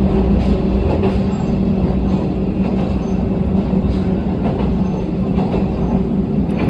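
Aizu Railway diesel railcar heard from inside the cabin while running: a steady engine drone with faint, irregular clicks of the wheels on the rail joints.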